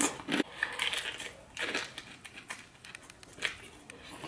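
Close-miked chewing of crispy battered fried seafood: irregular crunches, several in a row.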